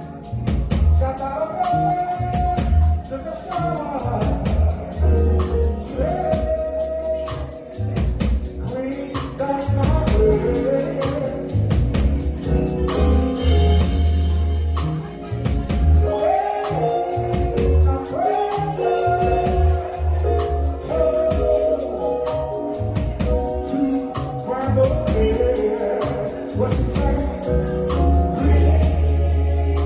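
Live gospel song: a solo voice singing over a band, with a steady, pulsing bass and drums and quick, regular percussion ticks.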